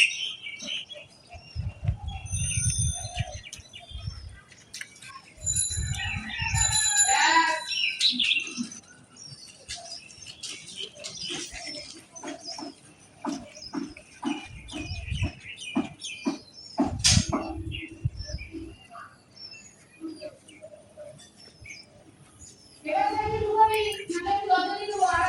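Birds chirping, with scattered clicks and low rumbling bumps, and people's voices, clearest near the end.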